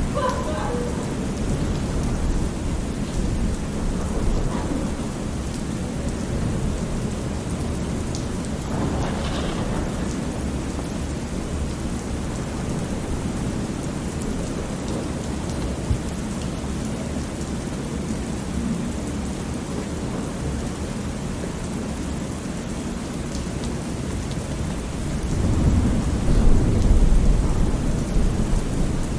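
Thunderstorm ambience: steady rain with low rolling thunder. A louder rumble of thunder swells about three-quarters of the way through and then fades.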